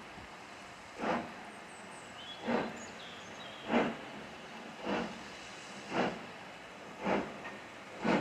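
Steam locomotive pulling away, its exhaust beating in slow, evenly spaced chuffs that gradually quicken as it gathers speed, over a steady hiss of steam.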